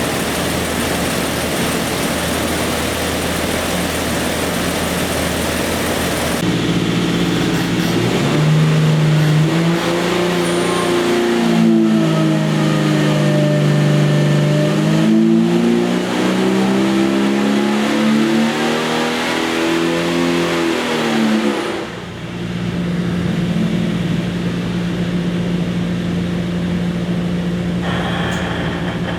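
Jeep 4.6 stroker inline-six running on an engine dyno: it idles, steps up about six seconds in, and goes through a dyno pull with its pitch rising and falling for about fifteen seconds. It then drops off suddenly and settles into steady running.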